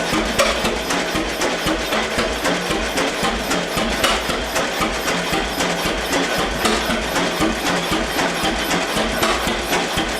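1919 Eagle 12-22 two-cylinder tractor engine running, its firing beats coming in a steady, even rhythm.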